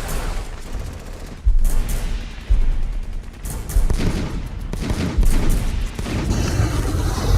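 A series of loud bangs, four of them roughly a second apart, each with a deep low end.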